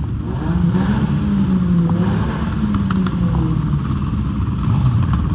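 Motor vehicle engines running at low revs, a low engine note wavering up and down, with a few sharp clicks.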